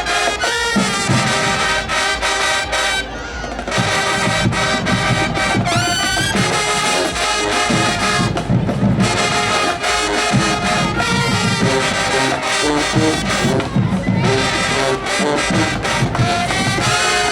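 High school marching band playing at full volume: a massed brass section of trumpets and trombones over a drumline. The full band drops out briefly about three seconds in, and the brass rip upward in pitch about six seconds in.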